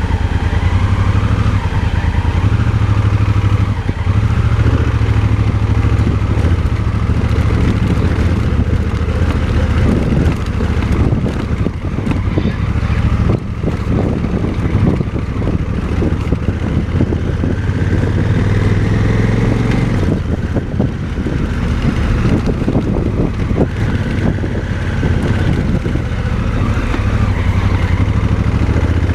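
Motorcycle engine running at low speed while riding slowly over a muddy, rough dirt track, a steady low engine note with scattered knocks and clatter from the bike jolting over the ground, thickest about ten to sixteen seconds in.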